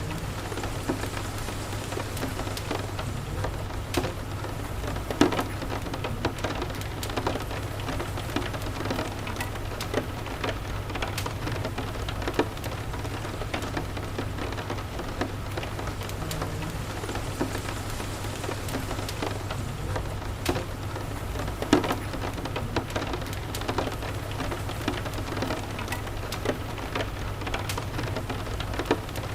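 Steady rain ambience with a crackling wood fire: scattered small pops throughout the rain's even hiss, two of them louder, about five seconds in and again around twenty-two seconds.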